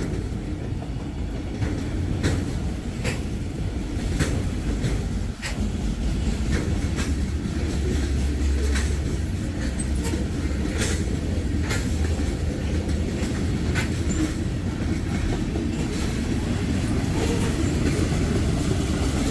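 Freight train cars rolling past at close range: a steady low rumble of wheels on rail with sharp clacks about once a second as the wheels cross rail joints.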